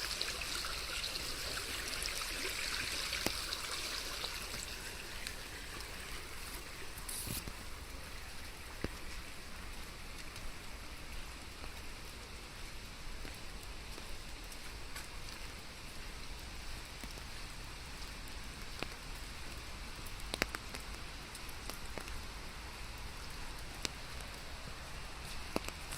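Steady rainfall, a little heavier in the first few seconds, with now and then a single sharp drop or drip striking close by.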